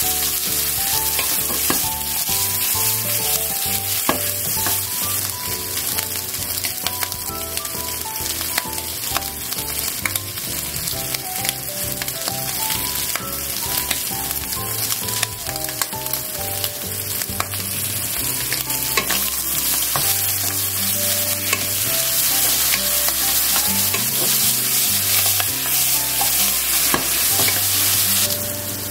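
Potato wedges and sausage slices sizzling in a frying pan while a wooden spatula stirs and turns them, with frequent light clicks and scrapes of the spatula on the pan.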